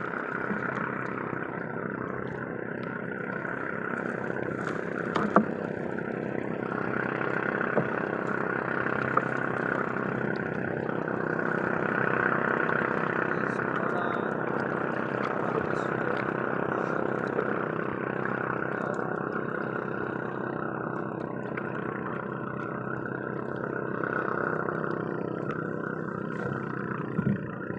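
Boat engine running steadily at an even speed, with a few light knocks.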